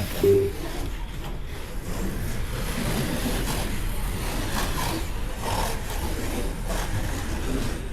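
Slot cars racing laps on a track: a steady mix of small electric motors running and the cars running over the track.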